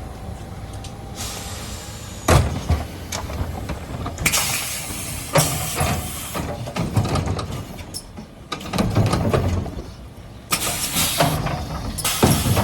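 Mercedes Econic refuse truck running steadily, with a sharp knock about two seconds in and several loud second-long bursts of hiss and clatter, twice in the middle and again near the end.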